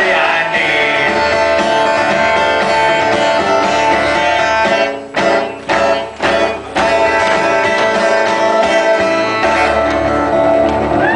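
Live music: a guitar playing an instrumental passage of held, ringing chords, with three or four abrupt stops about five to seven seconds in.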